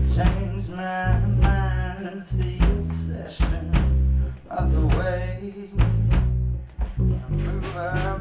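Live gypsy rock band playing: sung vocals over electric guitar, bass guitar and drums.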